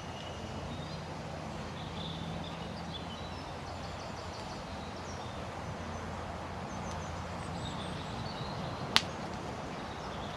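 Steady outdoor background noise with faint, scattered bird chirps. A single sharp click about nine seconds in.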